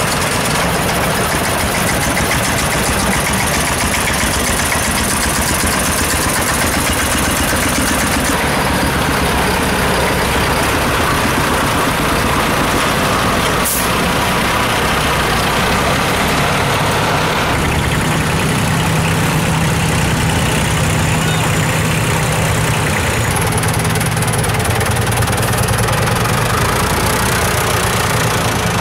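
Tractor engines running at low speed as a line of tractors goes by, the engine note changing every several seconds as a different machine passes. A single sharp click sounds about halfway through.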